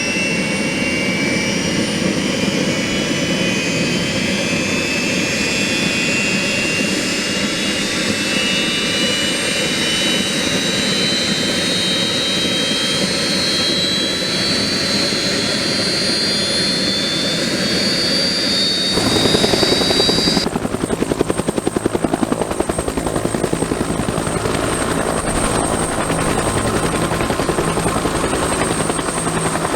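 UH-1 Huey helicopters running up after start: the turbine whine climbs slowly and steadily in pitch over a constant rumble. About twenty seconds in, the sound changes suddenly to a heavier, steady rhythmic beat from the rotor, with a thin high whine on top.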